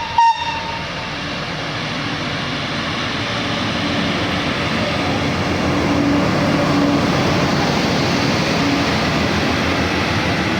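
Italian train passing close by: a short horn blast right at the start, then a steady rumble of wheels on rail that builds over the first few seconds and holds.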